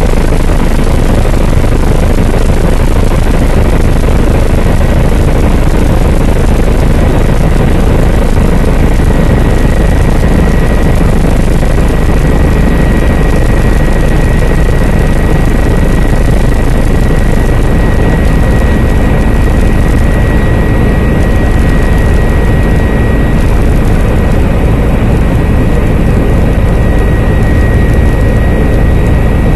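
Helicopter in flight: loud, steady rotor and engine noise, with a thin high whine running through it from a few seconds in.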